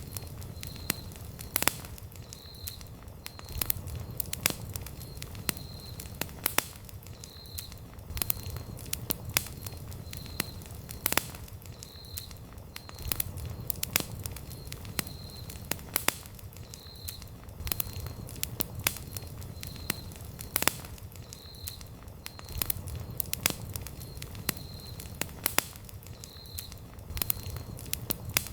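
Wood campfire burning, crackling with frequent irregular sharp pops over a low rumble. A faint high chirp repeats every second or so underneath.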